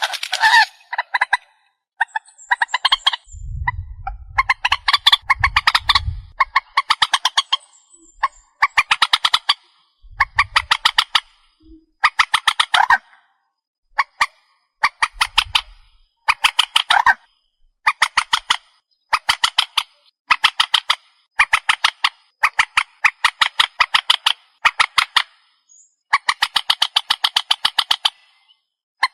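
Swamphen (trích ré) calling over and over in harsh, cackling bursts, each a rapid run of pulses, roughly one burst a second. This is a lure recording for trapping the bird. Some low rumbling runs a few seconds in.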